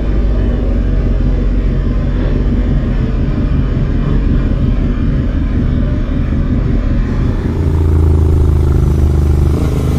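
Motorcycle running on the road under a heavy rumble of wind buffeting the microphone. From about seven and a half seconds in, a steadier engine hum stands out.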